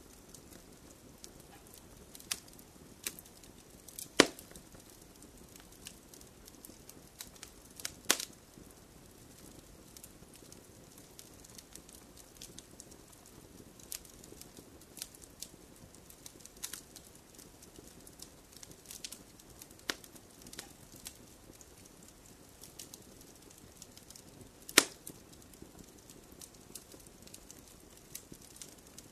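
Wood fire crackling in a fireplace: a low, steady hiss with scattered sharp crackles and three loud pops, about four, eight and twenty-five seconds in.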